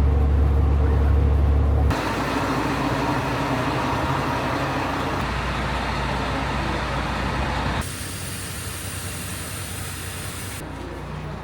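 Vehicle noise in abruptly cut stretches: first a steady low engine hum, then about two seconds in a louder, broad rushing noise, and near eight seconds a quieter hiss.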